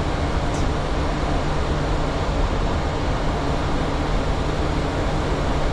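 Steady cockpit noise inside a Boeing 737 in flight: an even rush of air with a low hum beneath it. A faint, brief high chirp sounds about half a second in.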